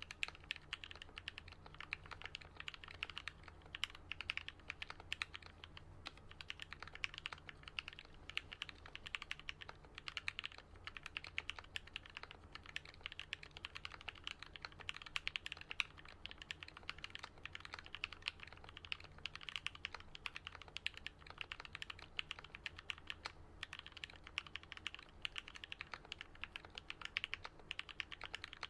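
Continuous fast typing on a custom Alice-layout mechanical keyboard with lubed linear Gat Yellow switches and lubed Durock stabilizers: a dense, steady stream of keystroke clicks.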